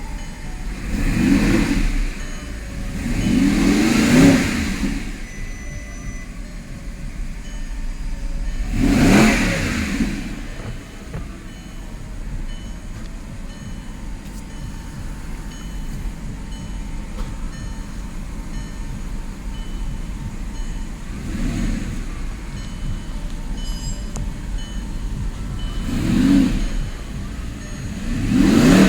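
Audi R8 engine idling and blipped up in revs about six times, each rev rising and falling within a second or two, the biggest a few seconds in and about nine seconds in. The engine is running again after a repaired ECU cured a no-crank, no-start fault.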